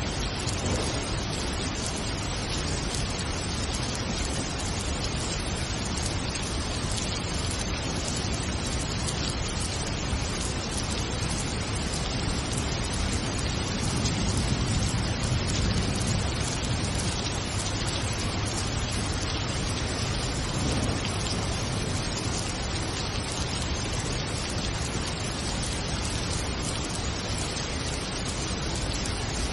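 Steady heavy rain falling, an even hiss of drops. A low rumble swells slightly about halfway through.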